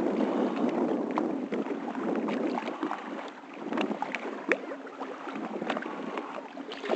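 Water lapping and splashing around a kayak, with scattered small sharp clicks and drips, loudest in the first second or so.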